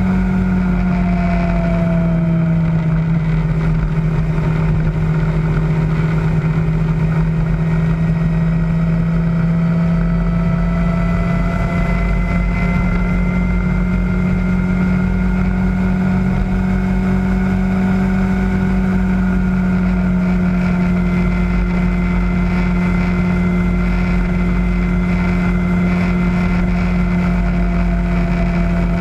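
Kawasaki ZZR600's inline-four engine running at a steady cruising speed on the move, its pitch dipping slightly about two seconds in and otherwise holding nearly level.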